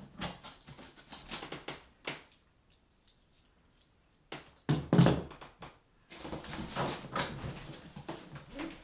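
Computer parts and packaging being handled: scattered clicks and rustling, a louder thump about five seconds in, then continuous rustling.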